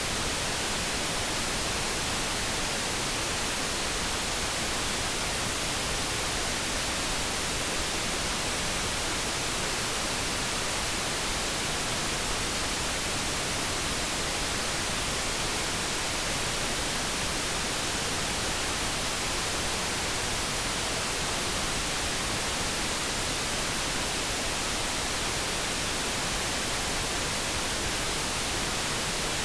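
Steady synthesized light brown noise, an even, unchanging rush of noise with no tones or breaks.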